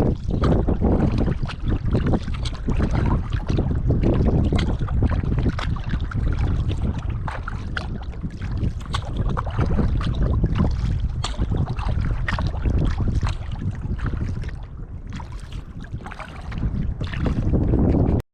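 Kayak paddling: water splashing and dripping off the paddle blades in short ticks, over a heavy rumble of wind on the microphone. It all cuts off abruptly near the end.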